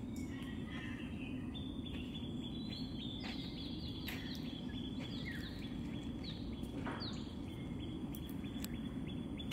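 Steady low outdoor rumble with a bird's repeated short, high chirps over a thin high steady tone.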